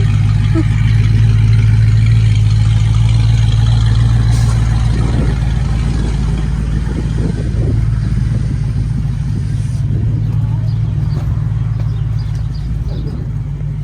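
Steady, loud low hum of a motor vehicle's engine running close by, with faint scattered clatter over it.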